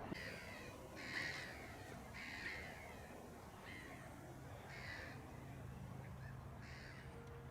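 Crows cawing: a series of about six harsh caws, roughly one every second or so.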